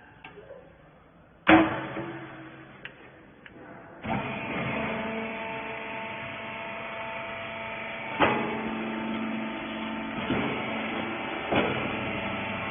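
A hydraulic rag baler: a loud clang with a short ringing tail, then from about four seconds in its electric motor and hydraulic pump run with a steady hum of several tones, broken by a few knocks.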